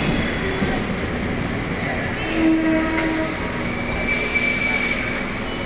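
Electric multiple-unit (EMU) suburban train running on the rails with its steel wheels squealing, several high-pitched squeal tones changing over the steady running noise.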